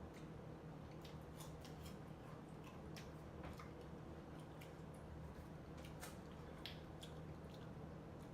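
Close-miked eating: quiet chewing with scattered short, wet mouth clicks and smacks of fruit being eaten.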